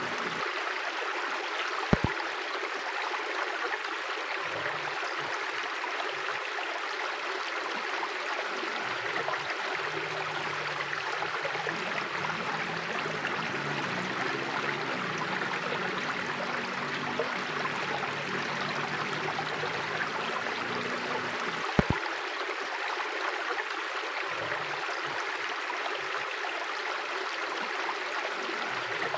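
Mountain river flowing: a steady, even rush of water. Two brief sharp clicks stand out, about two seconds in and again some twenty seconds later.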